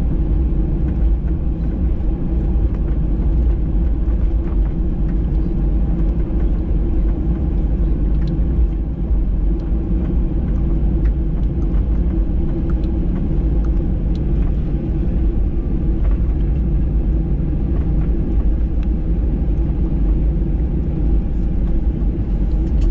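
Cabin noise inside a Boeing 737-800: a steady, loud rumble from its CFM56-7B jet engines and the airflow, with a few steady low hums and no change in pitch.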